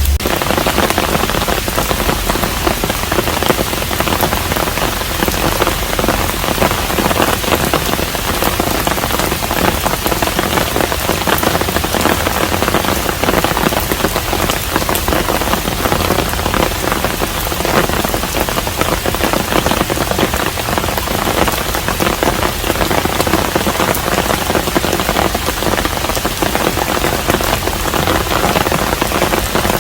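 Steady rain falling on a traditional Korean hanok, a dense, even patter of countless drops that holds unchanged throughout.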